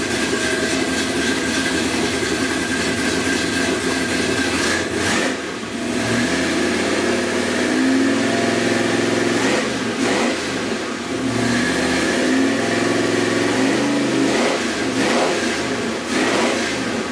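Mildly built Chevrolet 454 big-block V8 in a 1969 El Camino SS396 running steadily for about five seconds. It is then revved up and held twice, a few seconds each time, with a few quick throttle blips near the end.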